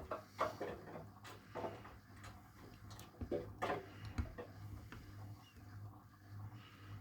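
Miele W1 washing machine in its QuickPowerWash cycle: laundry tumbling in the turning drum gives irregular swishes and knocks over a steady motor hum. The knocks thin out after about four seconds.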